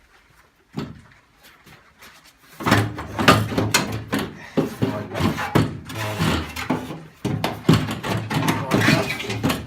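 A pressed-steel pattern battery box being worked into the Mini's boot floor opening: a single knock about a second in, then a run of irregular metal clunks and rattles from about two and a half seconds in, as the box fails to drop into place.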